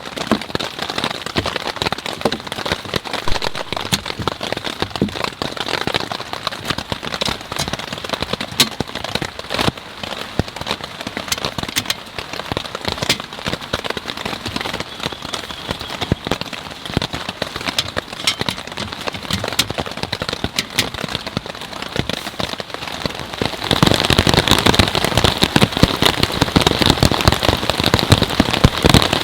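Rain falling steadily, with many separate drops ticking on a surface. About three-quarters of the way through it suddenly becomes louder and denser.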